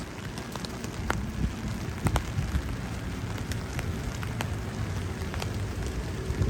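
Rain and wind of an arriving hurricane: a steady low rumble of wind with many scattered sharp ticks of drops striking close by.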